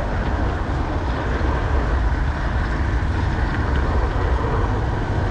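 Garden-scale model train running along its track, heard from a camera riding on the train: a steady rumble of wheels and motor.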